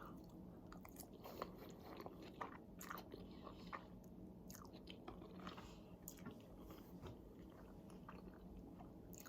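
Faint chewing of food close to the microphone, with scattered small clicks.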